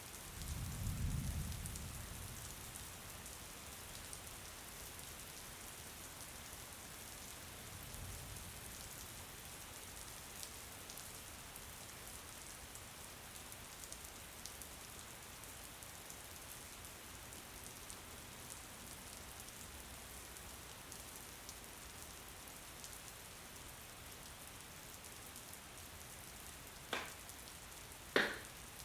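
Steady rain falling, with fine drop ticks through it. A low rumble swells and fades about a second in, a fainter one comes around eight seconds, and two sharp clicks about a second apart come near the end.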